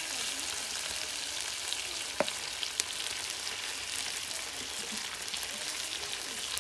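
Chicken pieces sizzling in hot oil in a wok over a wood fire, a steady high hiss, with a metal spatula stirring and a couple of sharp clicks about two seconds in.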